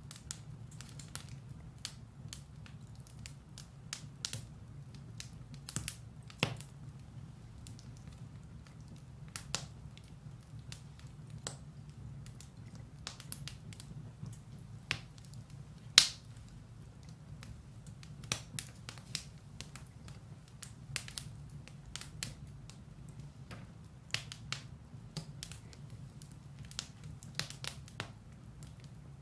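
Firewood burning in a fireplace, crackling with irregular sharp pops and snaps over a steady low rumble of the flames; one pop about halfway through is the loudest.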